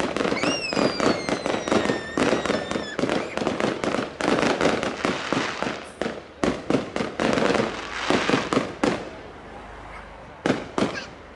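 Fireworks going off in quick succession, with a whistling firework gliding down in pitch during the first few seconds. The bangs thin out near the end to a few single reports.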